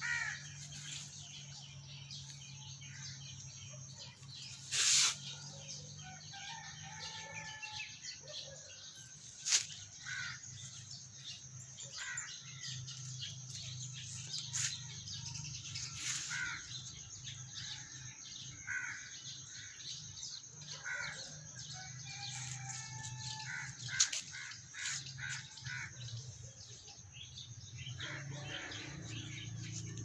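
Birds chirping on and off in short calls, over a steady low hum, with a few brief sharp noises, the loudest about five seconds in.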